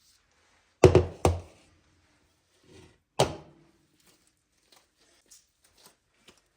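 Dull knocks of hard objects being handled: two close together about a second in, a third about three seconds in, then faint light taps.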